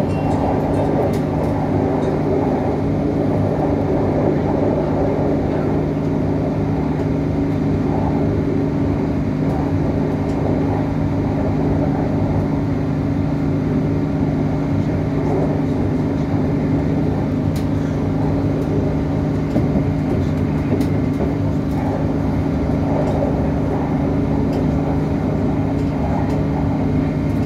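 Cabin noise of a CAF-built Northern Ireland Railways diesel multiple unit running at speed: a steady drone with two held low tones over rumble, and a few faint clicks.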